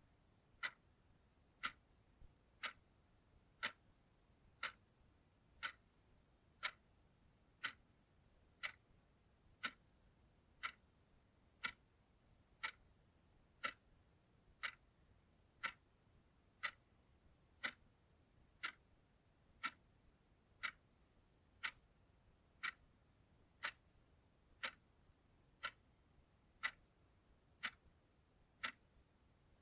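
A clock ticking steadily, one tick a second.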